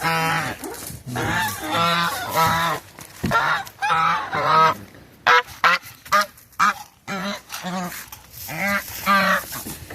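Domestic geese honking over and over, several loud calls in quick succession with a few shorter, sharper honks around the middle.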